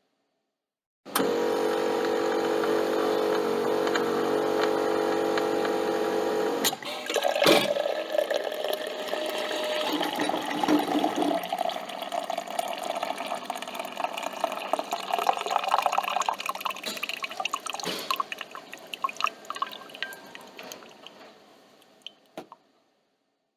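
Coffee machine running with a steady electric hum for about five seconds. A click follows, then liquid pouring and dripping, which thins out to scattered drips and stops.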